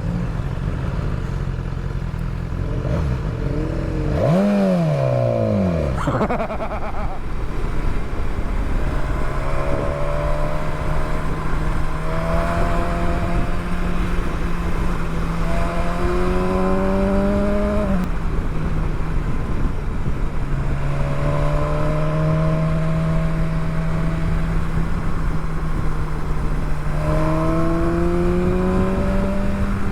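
Motorcycle engine heard from on board while riding, with wind noise. About four seconds in the revs rise and fall sharply, then the engine pulls steadily with the pitch slowly climbing, drops back once at a gear change and climbs again near the end.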